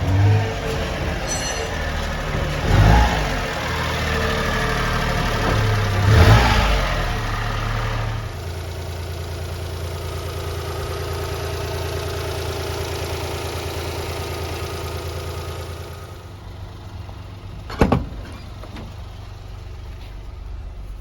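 1995 Honda Acty truck's small three-cylinder engine blipped three times in quick revs, then idling steadily; the idle note drops a little later on. A single sharp thump sounds near the end.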